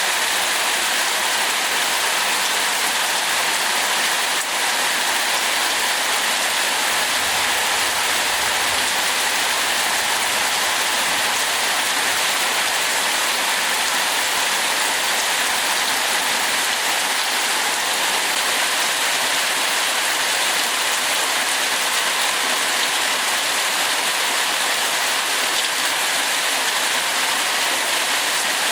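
Heavy rain falling steadily, a dense even hiss that holds at the same level throughout.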